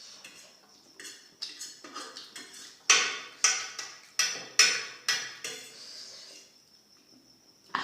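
Cutlery clinking and scraping against a plate of food, about ten quick sharp strikes with a short metallic ring, loudest in the middle.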